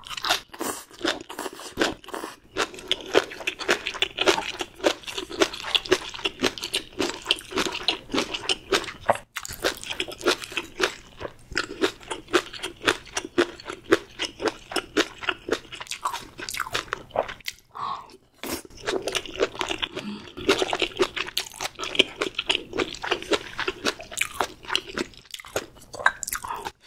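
Close-miked chewing of food: a dense run of quick, wet mouth clicks and crunches, breaking off briefly about 9 s and 18 s in.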